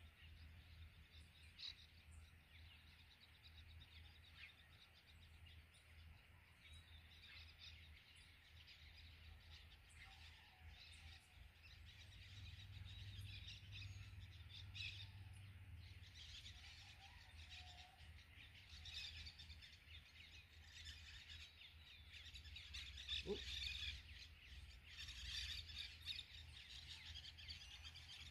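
Quiet outdoor ambience: faint bird chirps over a low steady rumble, with one short knock about three-quarters of the way through.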